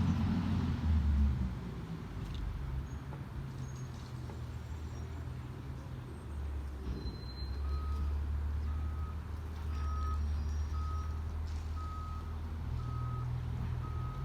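Garbage truck's diesel engine running with a low rumble, swelling briefly in the first second. About halfway through its reversing alarm starts, beeping steadily about one and a half times a second as the truck backs up.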